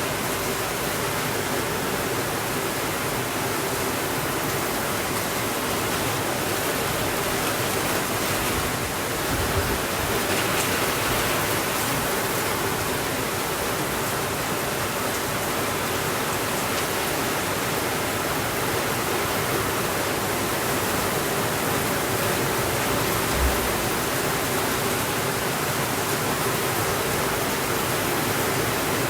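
Steady rainfall, an even hiss with no let-up. There is a slight swell about a third of the way through and one short, soft low thump about two-thirds through.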